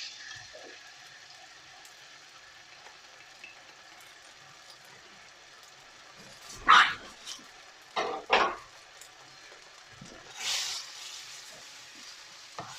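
Onions and garlic-ginger paste sizzling faintly in hot vegetable oil in a frying pan. A little past halfway there are three short loud sounds, and a brief louder hiss comes near the end.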